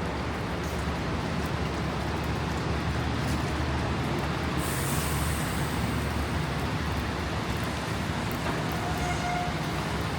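City street traffic: a steady rumble of motor vehicle engines over road noise, with a short high hiss about halfway through.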